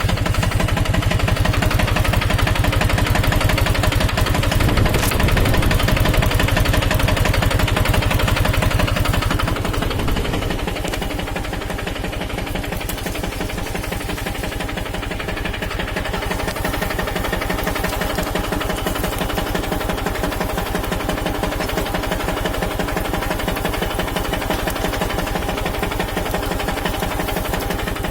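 Captain 250 DI mini tractor's diesel engine running steadily while pulling a kunte blade harrow through sugarcane rows. The sound drops and quietens somewhat about ten seconds in, then carries on evenly.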